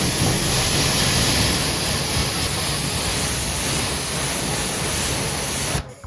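Water spraying steadily from a pressure washer, a loud even hiss that cuts off suddenly near the end.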